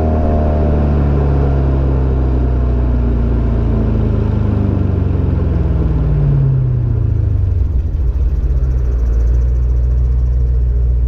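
Audi RS5's 4.2-litre V8 exhaust through a non-resonated Supersprint mid X-pipe and stock mufflers, the revs falling gradually over about seven seconds, then settling into a steady low rumble.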